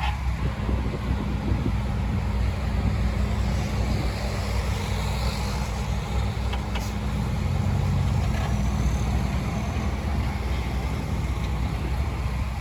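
Large diesel engine of heavy earthmoving machinery running steadily, its drone swelling a little partway through.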